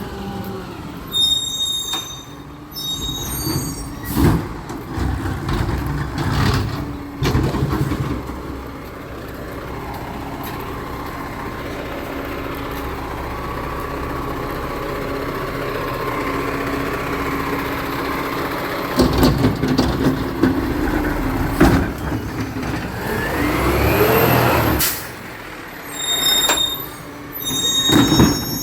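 Recycling collection truck working: engine running with knocks and bangs, a steady mechanical whine through the middle and a whine rising in pitch near the end. Bursts of high beeping come near the start and again near the end.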